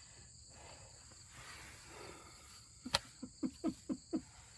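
Steady chirring of crickets. About three seconds in, a sharp click, followed by five short squeaks, each falling in pitch, in quick succession.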